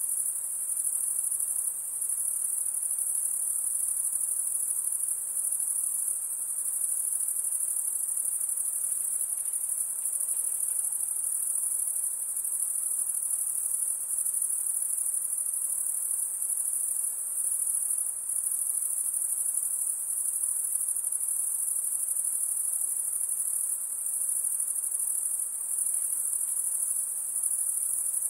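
Insects singing in a steady, unbroken high-pitched chorus.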